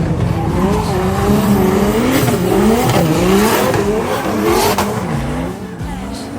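Drift car engine revving hard, its pitch rising and falling again and again as the throttle is worked through a slide, over tyre screech.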